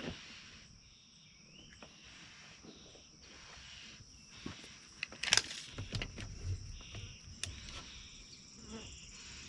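Outdoor ambience with insects shrilling steadily at a high pitch, broken by scattered light clicks and a sharper knock about five seconds in, with a low rumble coming in after it.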